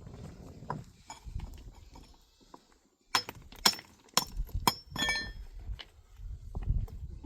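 A quick run of sharp clinks and knocks in the middle, one of them ringing briefly like struck metal, over a low rumble.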